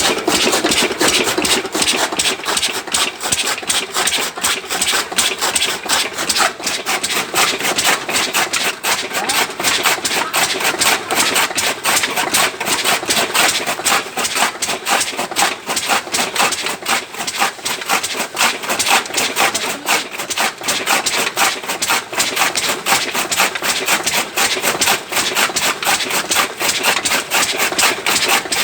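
Single-cylinder Lister-type 8 hp diesel engine running steadily with a rapid, even knocking, driving a belt-driven chaff cutter that chops sugarcane.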